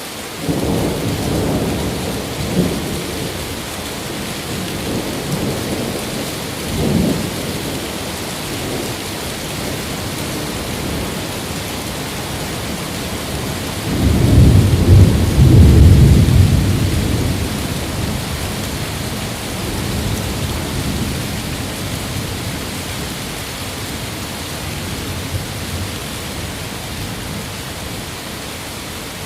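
Steady heavy rain with thunder rumbling through it: a short clap about seven seconds in, and a long, loud roll of thunder about halfway through.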